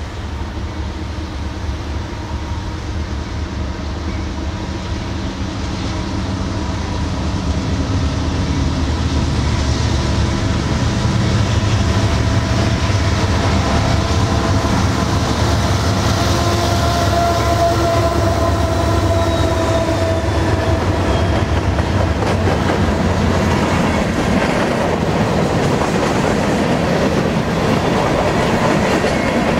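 Two BNSF diesel locomotives leading an empty grain train approach and pass, their engines running steadily and growing louder over the first dozen seconds. In the last third the empty covered hopper cars roll past with a rapid clickety-clack of wheels over the rail joints.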